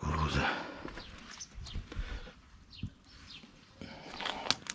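Small birds chirping in short, scattered calls, with a loud rustling thump at the start and a sharp click near the end.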